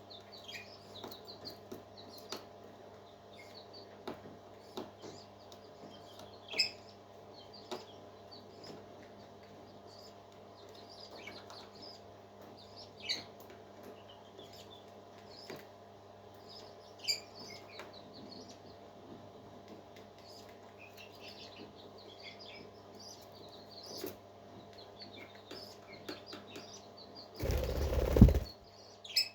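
Parrot chicks peeping: short, high, falling chirps scattered throughout, over a steady low hum. Near the end a loud noisy burst lasting about a second.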